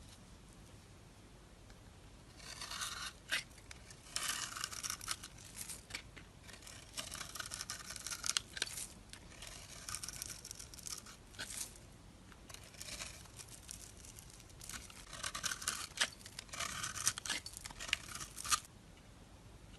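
Knife cutting into dry soap: a run of crisp scraping, crunching strokes in quick clusters, starting about two seconds in and stopping near the end.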